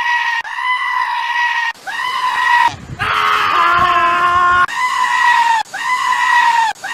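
A goat screaming in short, high, level-pitched calls, about one a second. In the middle they are broken by one longer, lower, rougher bleat lasting about two seconds.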